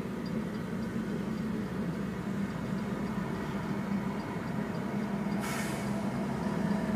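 Slow-moving work train passing, its GE ES40DC diesel locomotive giving a steady low hum as the cars roll by. A short hiss comes about five and a half seconds in.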